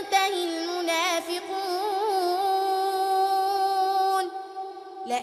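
A young girl's voice reciting the Quran in melodic tajweed style, drawing out a long held note with wavering vocal turns. The note breaks off about four seconds in, and after a brief pause the next phrase begins near the end.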